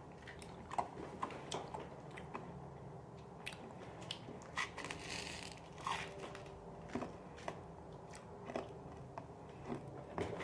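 A person chewing and crunching Nerds candy in the mouth: faint, irregular small crunches.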